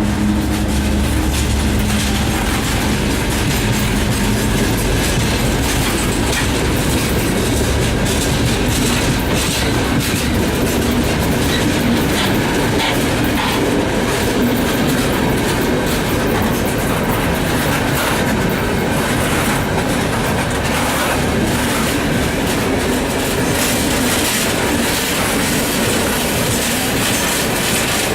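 Freight train wagons rolling past with a steady clickety-clack of wheels over rail joints. The drone of the 2M62U diesel locomotive's engine dies away in the first few seconds.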